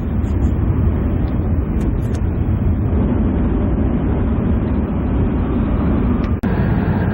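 Train running, a steady low rumble of wheels and motors on the rails, with a brief break about six seconds in.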